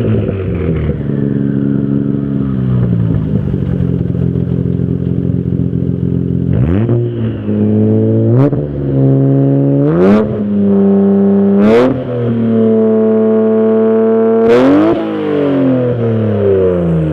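Toyota JZX90 Mark II's 1JZ-GTE twin-turbo straight-six, on a modified intake and exhaust, driving: it slows at first and holds a steady note, then accelerates hard through three upshifts, each marked by a short sharp burst and a drop in pitch. It then holds a steady cruise before lifting off and slowing near the end.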